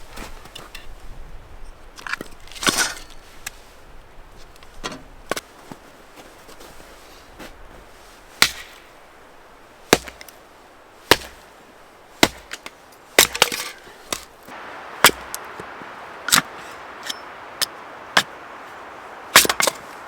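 Wood being broken up: a string of about fifteen sharp, irregular cracks and knocks, the loudest near the end. A faint steady hiss comes in about three-quarters of the way through.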